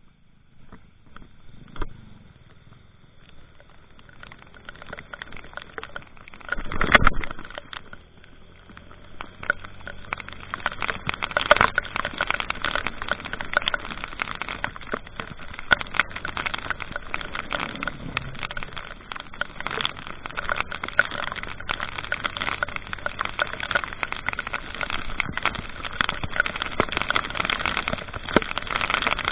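Rain pattering in a dense crackle of drops that builds up and holds steady from about nine seconds in. A brief loud rush, like a vehicle going by, comes about seven seconds in.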